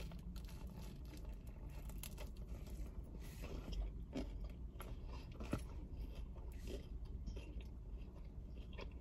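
A person biting into and chewing a crispy grilled chicken sandwich, with scattered small crunches and mouth clicks over a steady low hum.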